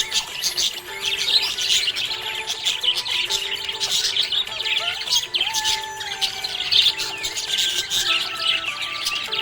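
Budgerigar chirping and warbling continuously in fast, dense chatter, over background music with held melodic notes.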